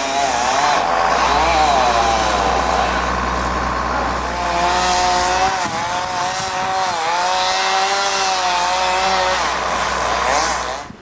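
Small gasoline engine running loudly, its pitch wavering up and down as the load changes, then cutting off abruptly at the end.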